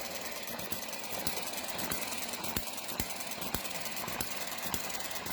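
Eachine ET7 model open-crank hit-and-miss petrol engine running, with a sharp pop roughly every half second at uneven spacing over a fast mechanical ticking. Its governor springs are weakened so that it fires only now and then, giving a hit-and-miss action.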